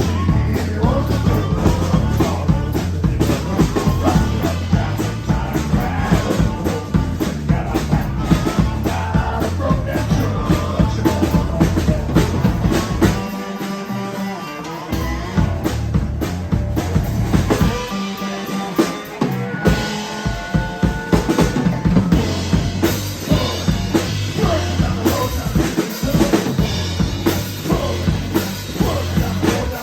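Rock band playing live, with a drum kit keeping a steady beat under bass and guitar. Twice, about halfway through, the bass and drums drop out for a second or two, leaving held guitar notes.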